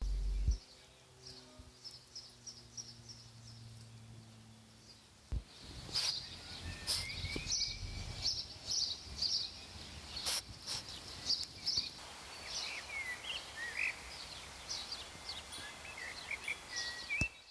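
Outdoor ambience with small birds chirping: short high chirps repeat many times from about six seconds in, joined later by a few lower calls, with a couple of sharp clicks along the way.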